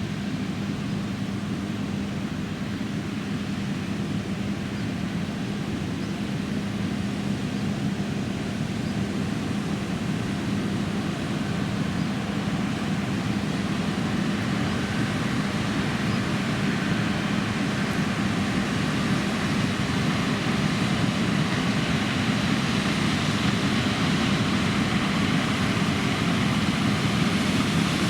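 John Deere X9 1100 combine harvester running steadily while cutting oilseed rape, a constant low drone over a broad mechanical rush that grows slowly louder.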